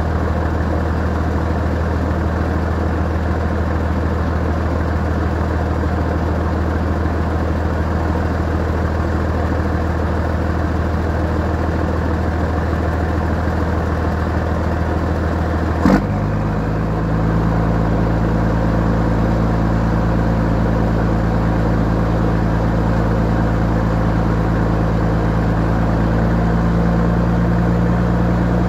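Scania 111S truck's straight-six diesel engine idling steadily after its first cold start of the day. About halfway through there is a sharp click, and the engine then runs on at a slightly higher, steady speed.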